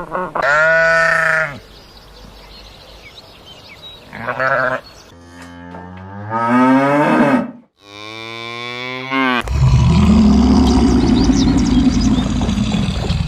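Farm animals calling: several short pitched calls, one after another, then one long, low call from about ten seconds in.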